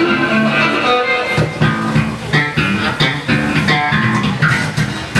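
A band playing a song, with electric guitar and bass guitar prominent over a steady beat.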